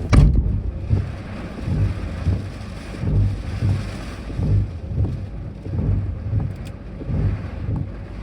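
Typhoon wind buffeting the microphone: a low rumble that swells and fades over and over.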